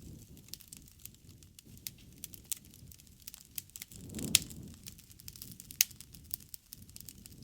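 Wood campfire crackling, with irregular sharp pops and two louder snaps, one about four seconds in and one near six seconds, over a low rush of burning.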